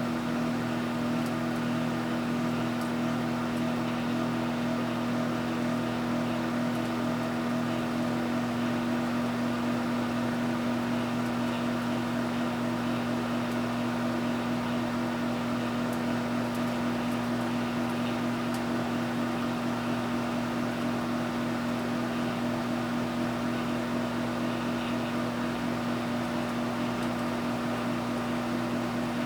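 Microwave oven running: a steady, unbroken hum.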